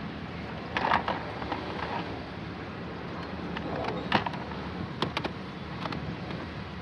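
A few sharp clicks and knocks, typical of plastic dashboard trim and tools being handled, over a steady low hum. The knocks come about a second in, then a little after four seconds, twice around five seconds and once near six.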